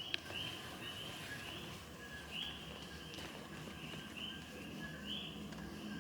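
A chorus of Puerto Rican coquí frogs: many overlapping two-note calls, a short lower "co" followed by a higher "quí", repeating about twice a second. One sharp click sounds just after the start.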